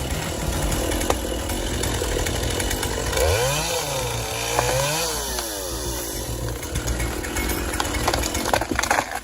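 Chainsaw running, its engine pitch rising and falling twice about midway.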